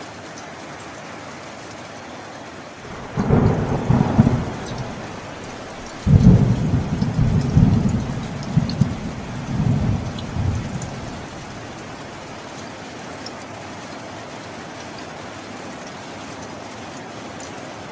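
Steady rain falling, with two rolls of thunder: a short rumble about three seconds in, then a longer, louder peal from about six seconds that rolls on and fades out by about eleven seconds.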